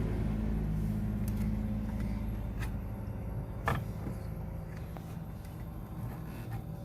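A low mechanical hum, like a small motor, fading down steadily, with a couple of light clicks partway through.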